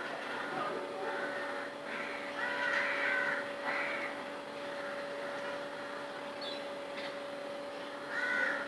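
Crow cawing: a run of harsh caws about two seconds in, then two more near the end.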